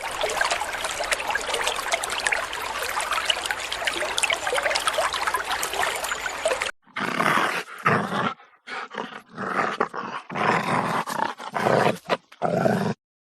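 A dense, hissing chatter for about seven seconds, cut off abruptly, then an animal's rough, loud calls in a string of short bursts.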